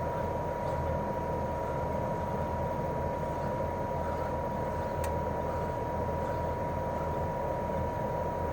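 Daikin R28RMV mini-split outdoor unit running steadily in cooling mode, its twin swing compressor and propeller fan giving an even whir and hum with a constant high-pitched tone. A single faint click comes about five seconds in.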